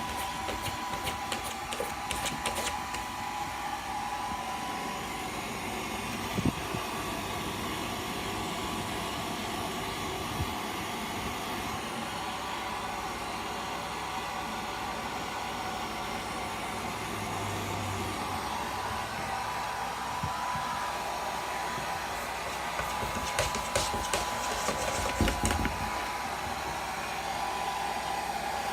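Hair dryer running steadily with a held whine. A cat scratches at a door in short runs of clicking near the start and again about three-quarters of the way through.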